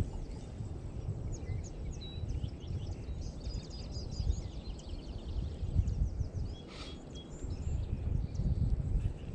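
Small birds chirping and twittering in quick high notes, busiest a few seconds in, over a low, uneven rumble.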